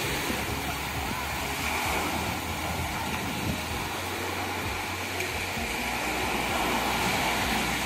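Ocean surf breaking and washing onto the shore, a steady rush of water that swells twice.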